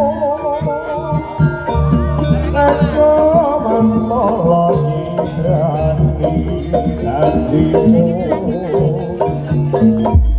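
Live jaranan music: hand drums and gongs playing a steady rhythm under a wavering, ornamented melody line.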